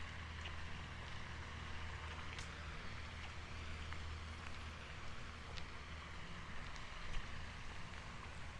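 Outdoor residential ambience: a steady low hum under an even hiss, with a few faint, scattered clicks.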